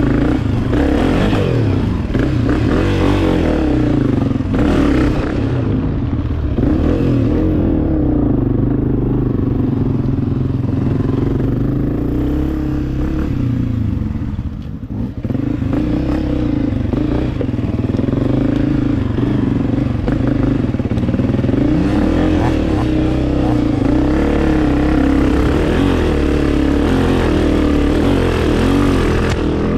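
Beta 300 RR two-stroke dirt bike engine being ridden along a trail, its revs constantly rising and falling with the throttle, with some clatter. About halfway through it briefly drops off the throttle, then picks back up.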